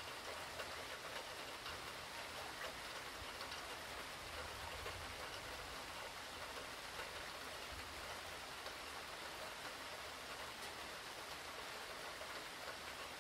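Steady rain from a hurricane, with many small drops ticking on a surface and a low rumble underneath.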